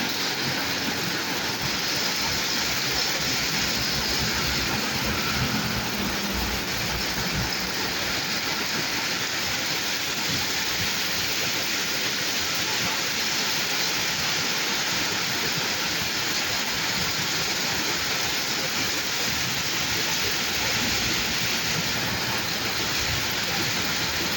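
Steady rain falling on a road, an even hiss that holds level without breaks.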